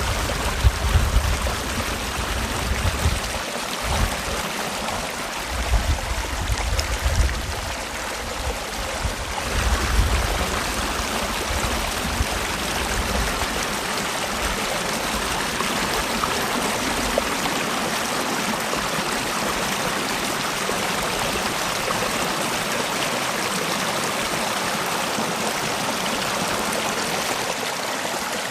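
Mountain stream rushing steadily over rocks. For roughly the first ten seconds, low gusty rumbles lie under the water sound, then it evens out.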